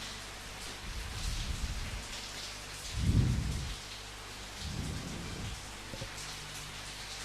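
Steady rain pattering, with low rolls of thunder: a rumble about a second in, the loudest one around three seconds, and another about five seconds in.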